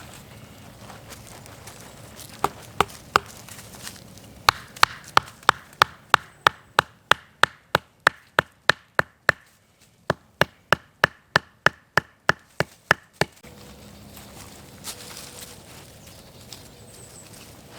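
Wood being struck hard and repeatedly during camp setup: a few single knocks, then a steady run of sharp wooden knocks, about three a second, with a short pause partway through before they stop.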